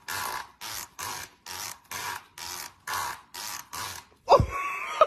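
A comb's plastic teeth being scratched in regular strokes, about two a second, the sound said to make a cat gag. About four seconds in comes one louder sound with a falling pitch.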